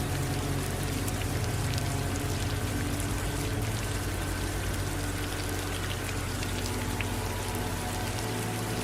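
Steady rain falling, with many individual drops ticking sharply over an even hiss, and a low steady rumble underneath.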